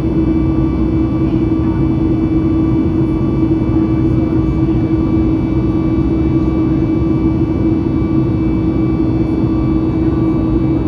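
Steady noise of a Boeing 737 MAX 8's CFM LEAP-1B engines and rushing air, heard inside the cabin, with one strong low tone and fainter higher tones held steady over the rush.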